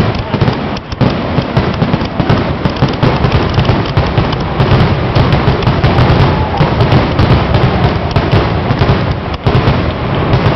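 Fireworks finale: a loud, unbroken barrage of aerial shells bursting in quick succession, the bangs running together with hardly a gap.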